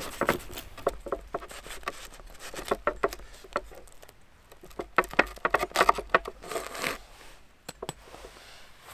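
Irregular short clicks, taps and rustling of things being handled, busiest a little past the middle.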